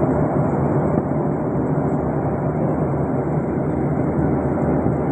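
Steady low roar of engine and airflow noise inside a passenger aircraft cabin.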